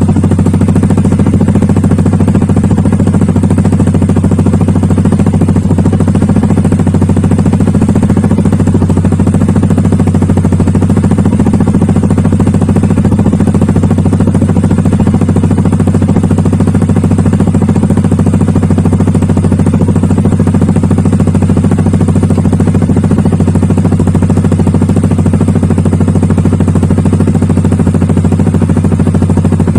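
Yamaha NMAX 155 scooter's single-cylinder engine idling steadily through an Akrapovic exhaust fitted without its silencer insert (dB killer), giving a loud, bass-heavy note.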